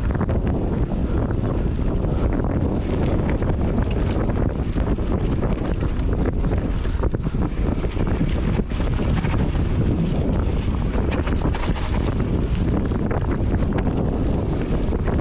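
Wind rushing over the microphone of a mountain bike riding fast down a rough trail, with frequent knocks and rattles from the bike over bumps.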